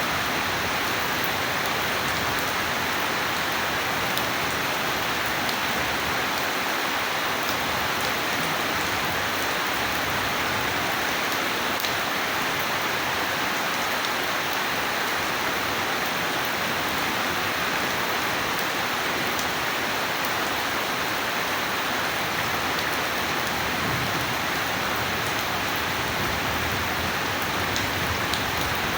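Steady heavy rain falling, a continuous hiss with scattered individual drops ticking on a surface.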